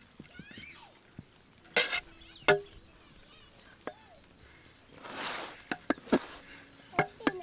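A metal spoon or ladle knocking and scraping in a cooking pot as cooked rice is stirred into the fried potato masala: two loud clacks about two seconds in, then lighter clicks and a short scrape. A steady high pulsing chirp runs underneath.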